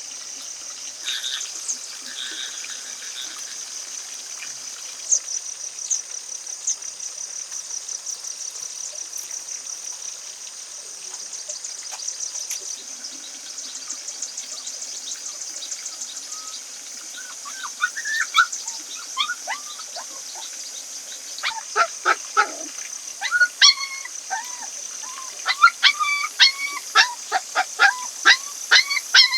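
Steady, high, rapidly pulsing insect trill from the forest. Over it, in the second half, comes a series of short, sharp animal calls in quick runs.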